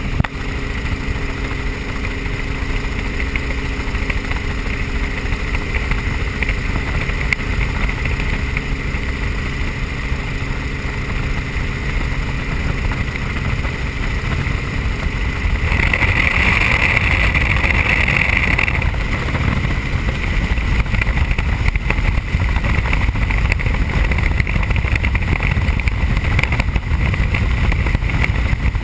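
Helicopter in flight: steady engine and rotor noise with a constant high whine, a high hiss swelling for a few seconds a little past halfway, and the noise a bit louder from then on.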